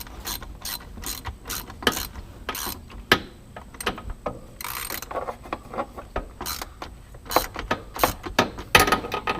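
Irregular clicks, clinks and knocks of hand tools and exhaust hardware being worked into place, with a brief scraping hiss about halfway through.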